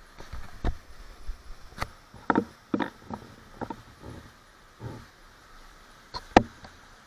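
A string of irregular knocks and clacks, about a dozen short hard strikes at uneven spacing, the loudest one near the end.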